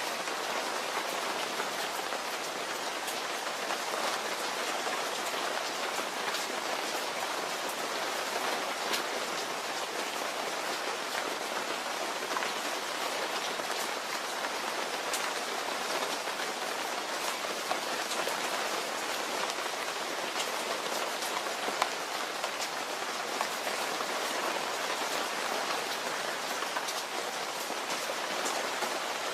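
Steady rain falling: an even, dense hiss with many single drops ticking through it.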